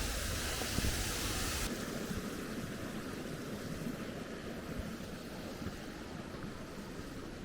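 Steady rushing of a mountain stream, dropping suddenly to a softer rush a little under two seconds in.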